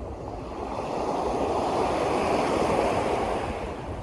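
Waves washing in: a rushing noise that swells about a second in and eases off near the end.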